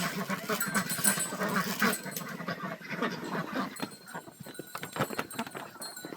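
Short animal calls, a dog or puppy among them, crowded together for the first two seconds and then sparser, with a few sharp clicks or knocks in the second half.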